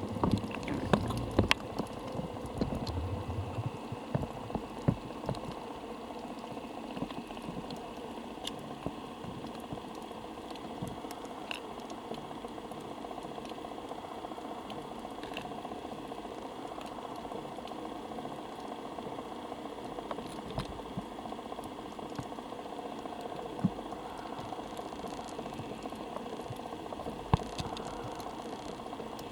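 Underwater ambience recorded through a camera's waterproof housing: a steady hiss with scattered crackles and sharp clicks, and a few low bumps in the first few seconds.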